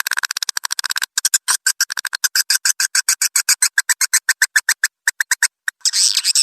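Swiftlet lure recording: a rapid train of sharp swiftlet clicks, about ten to twenty a second, broken by two brief pauses, then dense high twittering chatter starting near the end. It is the kind of call audio played to draw swiftlets into a nesting house.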